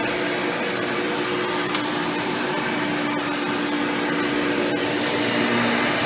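Hoover Power Drive Supreme upright vacuum running steadily, its motor with an upgraded 20-blade impeller fan giving a hum over the rush of air, with the pitch shifting slightly. A brief click about two seconds in.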